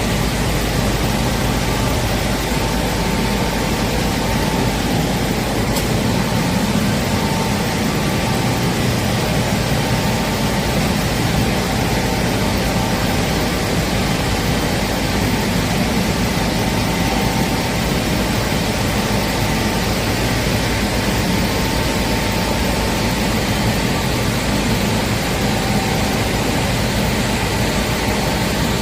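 Loud, steady machine noise running without change, with a faint steady hum above it.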